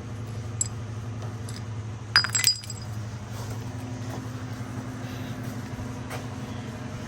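Metal engine parts and hand tools clinking during a small-block Chevy engine teardown: a few light clinks, with a louder cluster of clinks about two seconds in, over a steady low hum.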